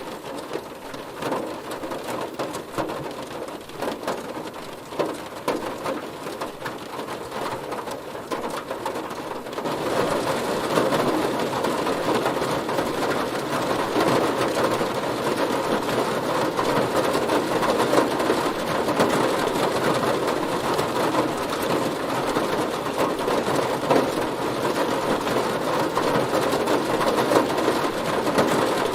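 Heavy rain pattering densely on a car. About ten seconds in it grows louder and fuller, then holds steady.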